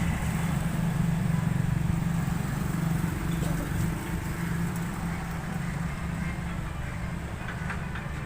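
Steady low engine drone with a throbbing rhythm, easing slowly in level; the engine is a hard-starting diesel.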